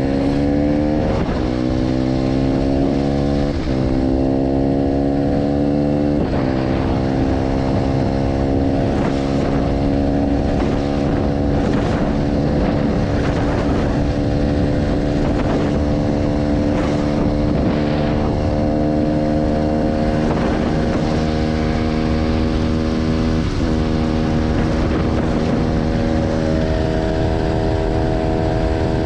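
Motorcycle engine through a G.P.R aftermarket exhaust, accelerating hard with the pitch climbing and dropping back at three gear changes in the first six seconds, then held at a steady speed with only small changes in pitch.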